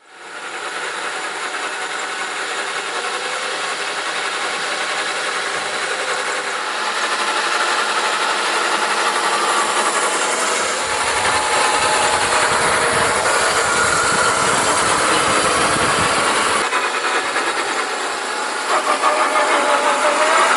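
1/6 scale RC Willys Jeep driving off-road: steady electric motor and drivetrain whine with rolling noise. A heavier low rumble sets in about halfway through and eases off near the end.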